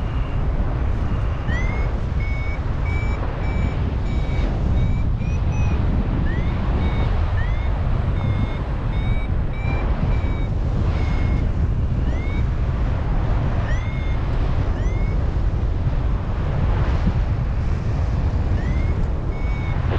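Paragliding variometer beeping in short chirps that rise at their start, in quick runs with gaps of a second or more between them, the climb tone that signals the glider rising in lift. Strong wind buffets the microphone throughout.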